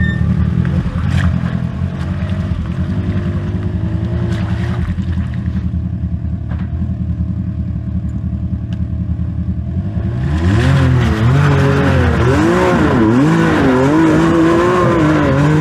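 Can-Am X3 side-by-side engine running low and steady, then about ten seconds in revving hard, its pitch rising and falling again and again as the machine climbs the obstacle.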